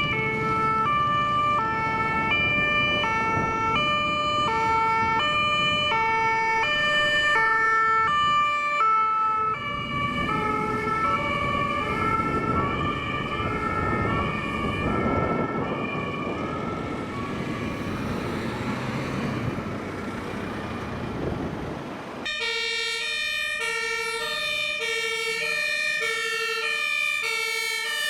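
German two-tone emergency vehicle sirens (Martinshorn) alternating evenly between two pitches. The first siren weakens after about ten seconds as the vehicle drives off, leaving engine and tyre noise. About 22 seconds in, a second vehicle's two-tone siren cuts in abruptly, a fire engine (LF 10) on an emergency run.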